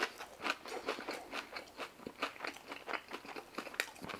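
Close-miked chewing of a mouthful of french fries: an irregular run of small crunches and wet mouth clicks, several a second.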